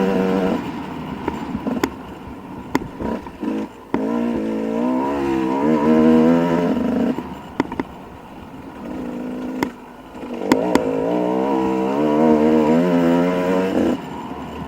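Dirt bike engine revving in several bursts, its pitch rising and falling with the throttle, easing off in between. Sharp clicks and clatter are scattered through it.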